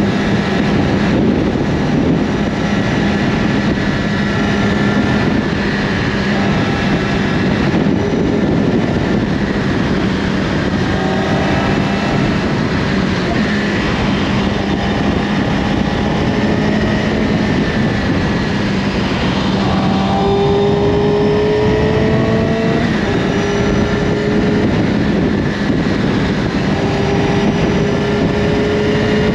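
Yamaha R6's inline-four engine with an Akrapovic slip-on exhaust, running under way over wind noise on the microphone. In the second half the engine note climbs and drops back several times as the bike accelerates through the gears.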